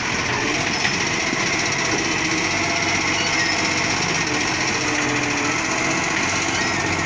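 Garbage truck running, a steady machine noise that holds at one level throughout.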